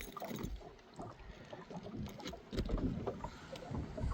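Scattered light knocks, clicks and rustling of handling in a small fishing boat, irregular and without any steady rhythm.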